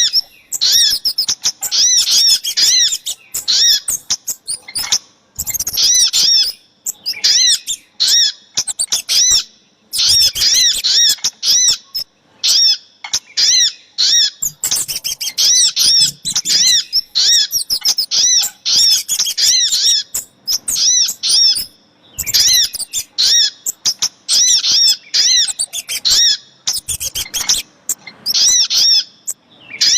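Bird-trapping lure recording of sogok ontong and kemade calls: rapid, high chirping notes, each quickly rising and falling, in busy bursts separated by brief pauses.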